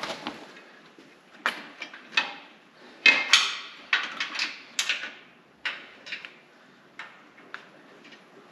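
Irregular metallic clicks and clatters of steel parking-brake cables and hardware being handled and fitted into place under a car, about a dozen separate knocks, busiest in the middle.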